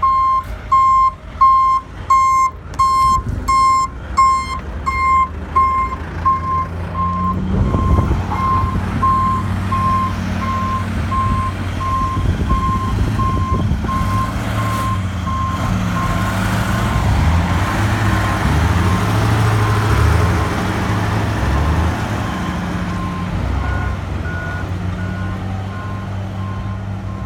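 A backup alarm beeps steadily, about one and a half beeps a second, loud at first and then fading under heavy diesel engines. From about seven seconds in, the engines rev up and down as the machines work. Near the end a second, higher-pitched backup alarm joins in.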